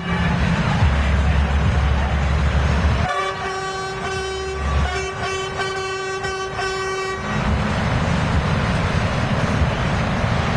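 Truck horn sounding in a few blasts on one steady note, from about three seconds in to about seven seconds in, over the continuous low rumble of truck engines.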